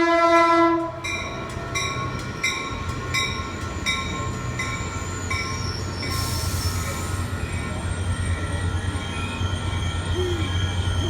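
Caltrain train arriving: its horn sounds a chord that cuts off about a second in, then a bell dings about twice a second for several seconds over the locomotive's low diesel rumble. A brief hiss follows, and then a steady high squeal of wheels and brakes as the train slows.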